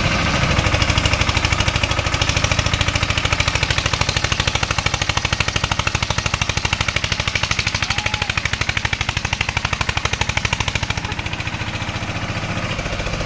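Eicher 241 tractor's single-cylinder diesel engine running hard, a fast, even chugging of firing pulses, as it pulls a brick-loaded trolley that is struggling to climb.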